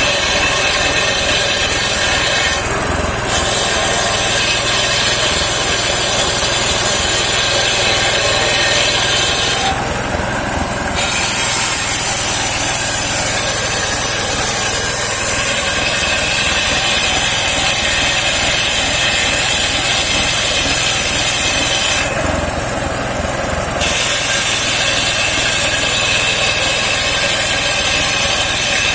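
Engine-driven home-built circular sawmill running and sawing saman (rain tree) wood. It makes a steady, loud mechanical noise with a high sawing whine that drops out briefly three times.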